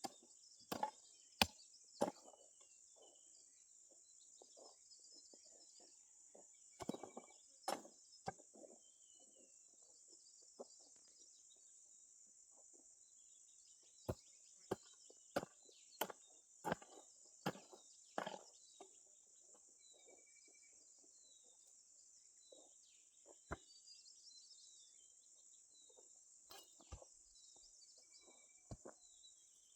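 Irregular chopping strikes from a hand tool, in uneven clusters of a few blows with long pauses between, over a steady high insect drone.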